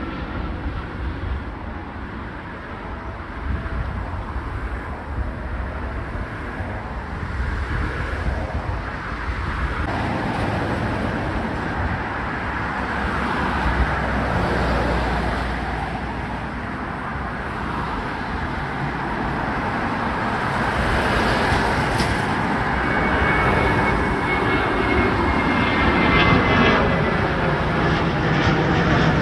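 Airliner jet engines at takeoff power on a departure, the noise building louder toward the end. A high whine comes in about two-thirds through and drops slightly in pitch.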